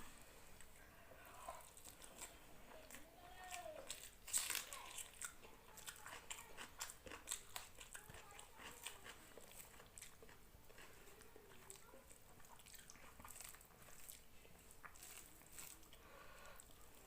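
Close-up eating sounds: a person chewing and biting a mouthful of rice and chicken curry, with a run of small wet clicks and crunches, loudest about four seconds in.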